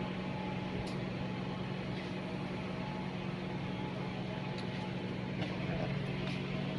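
Steady low electrical or mechanical hum over a background hiss, with a couple of faint clicks.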